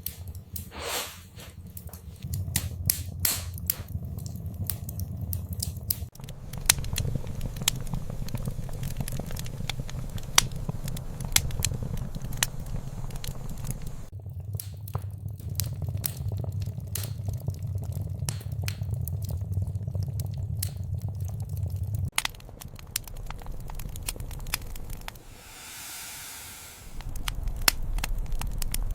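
Wood fire in a fireplace crackling, with frequent sharp pops and snaps over a steady low rumble of the flames. A brief hiss comes about 25 seconds in.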